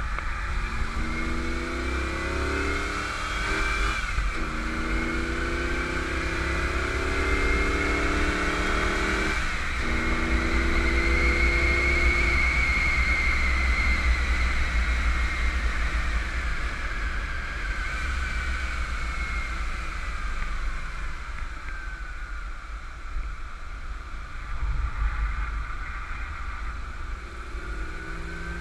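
1991 Camaro Z28 1LE's 305 TPI V8 pulling hard through two upshifts of its five-speed manual, about 4 and 9½ seconds in, then running flat out with a high whine, heavy wind and road noise. It eases off as the car slows and starts accelerating again near the end.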